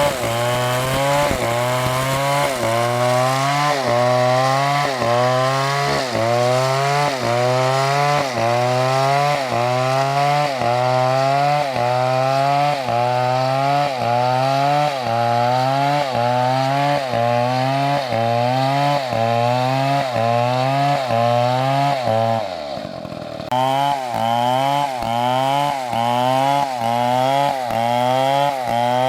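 Chainsaw cutting into a tree, its engine note climbing and dropping about once a second. About 22 seconds in the note falls away and quietens, then comes back about a second later.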